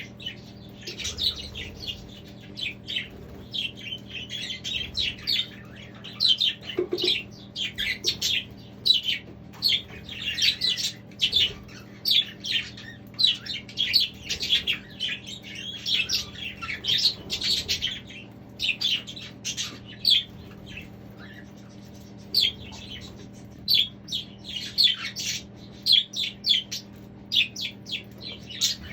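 Budgerigars chattering, with a steady stream of quick chirps and squawks overlapping throughout.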